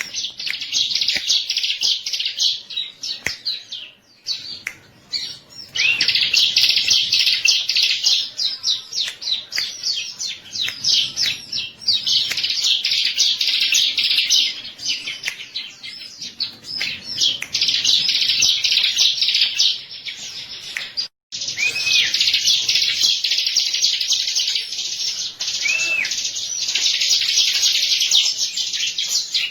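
Bar-winged prinia (ciblek) singing a fast, dense twittering chatter in long runs broken by brief pauses, with a few arched whistled notes near the end.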